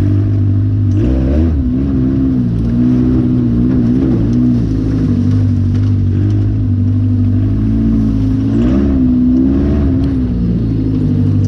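Off-road cage buggy engine running steadily under load, its pitch rising and falling briefly twice as the throttle is worked.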